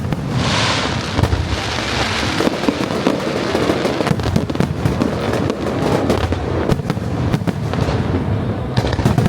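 Fireworks display: a dense, continuous barrage of bangs and crackles, with a burst of hissing crackle about half a second in.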